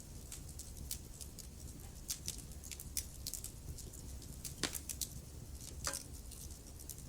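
Wood fire burning in a fireplace, with a low steady rumble and scattered sharp crackles and pops, two louder pops near the end.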